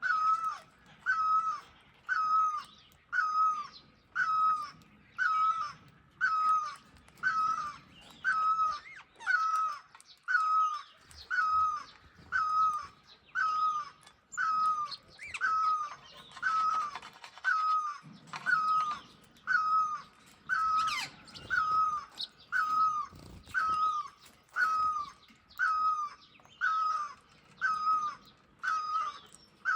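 A bird giving the same short, hoarse call over and over, about once a second and very evenly spaced.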